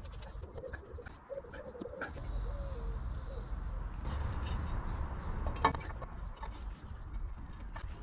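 A pigeon cooing during the first three seconds, over a low rumble, with scattered small clicks and one sharper knock about three-quarters of the way through.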